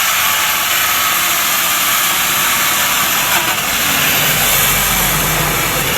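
Bosch angle grinder with a mini chainsaw attachment running, a loud, steady, hissing whir, with a low hum joining in about four seconds in.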